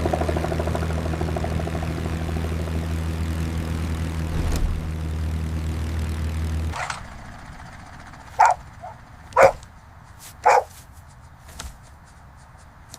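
A cartoon plane's engine drones as a steady low hum and cuts off suddenly about seven seconds in. A dog then barks four times, about a second apart.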